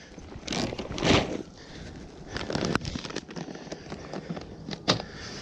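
Crackling rustles and a few sharp clicks of things being handled, as the food is left.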